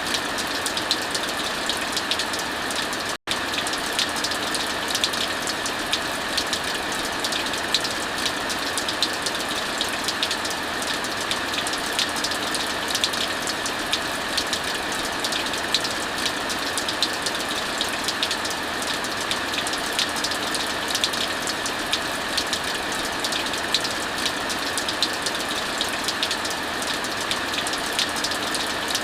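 Steady heavy rain mixed with the frequent small crackles and pops of a wood fire. The sound cuts out for an instant about three seconds in.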